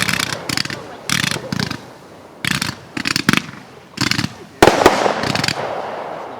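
Fireworks going off in quick succession: a string of sharp bangs and crackling bursts, with the loudest bang about four and a half seconds in and a long fading tail after it.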